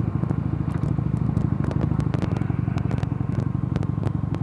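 Mondial Nevada 250 motorcycle engine running steadily at cruising speed, around 5000 rpm in fifth gear, with wind crackling on the microphone.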